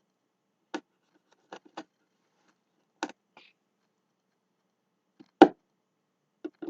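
Small wooden sticks clicking and knocking as they are handled and cut. There are about six short, separate knocks, and the loudest comes about five and a half seconds in.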